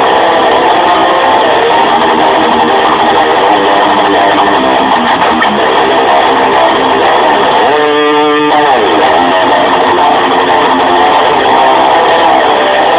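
Electric guitar playing sustained, layered notes, with a quick swoop in pitch about eight seconds in, typical of a whammy-bar dive bomb.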